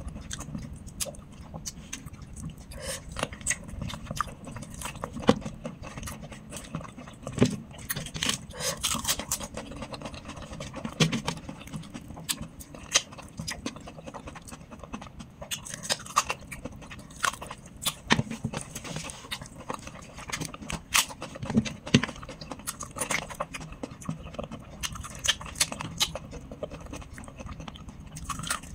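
Close-up eating sounds of a person chewing spent-hen chicken curry picked apart by hand: irregular short mouth clicks and smacks of chewing and biting.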